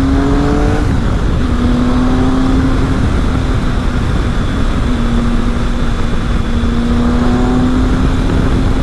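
Triumph Speed Triple's three-cylinder engine running at a steady cruising note, dipping briefly about a second in and again near five seconds as the throttle eases. Heavy wind rush on the helmet microphone runs underneath.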